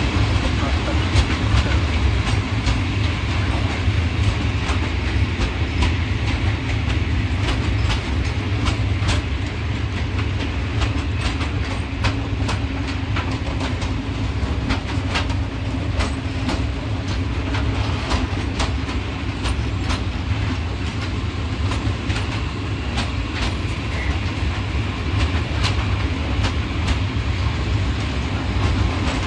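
Freight train of loaded open coal wagons rolling slowly past, with a steady low rumble and the wheels clicking over the rail joints again and again.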